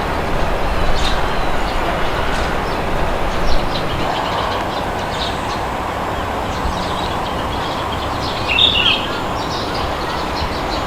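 Steady wind blowing, with birds chirping now and then over it and one louder chirp about eight and a half seconds in.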